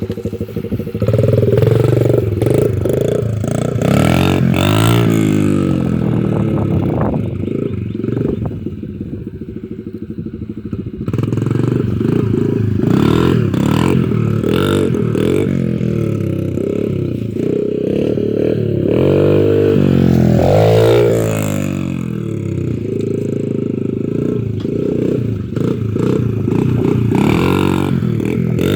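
Dirt bike engine revving as the bike is ridden, its pitch climbing and dropping again and again as the throttle opens and shuts, quieter for a few seconds partway through.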